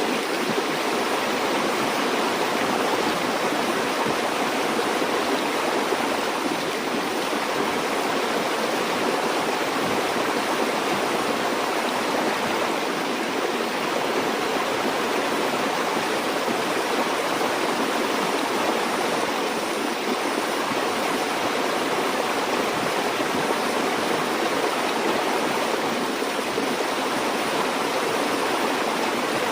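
Stream water flowing and rushing steadily, an even, unbroken wash of water noise.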